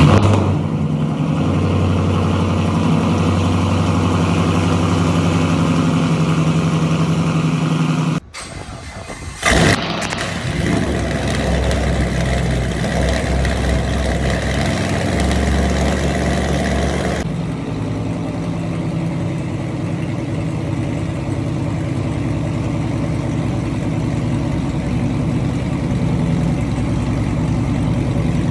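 V8 exhaust of a Ford Mustang GT and a Chevrolet Camaro SS running, in separate clips joined by abrupt cuts about 8 and 10 seconds in, with a change to a deeper, steadier note about 17 seconds in.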